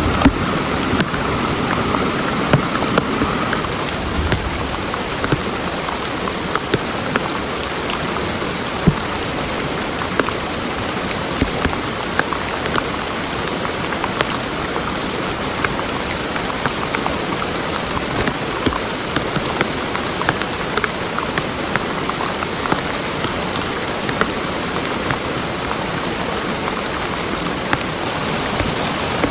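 Heavy rain falling steadily, with many close drops ticking sharply on a surface.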